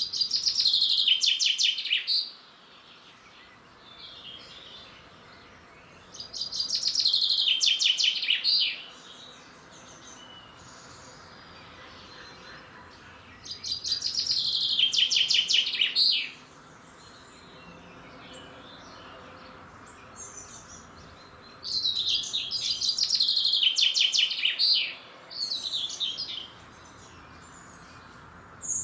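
A songbird singing the same short trilled phrase again and again, each phrase about two seconds long and falling in pitch, with a pause of several seconds between phrases.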